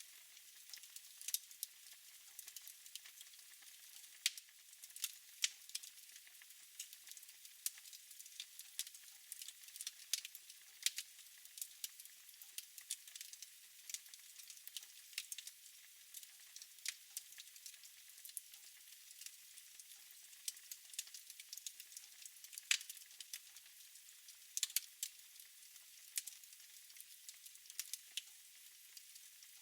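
Wood fire crackling in a fireplace: irregular sharp pops and snaps, a few louder ones, over a faint steady hiss.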